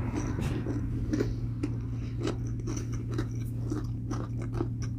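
Close-up chewing and biting of food, with many small crunches and wet mouth clicks. A room air conditioner hums steadily underneath.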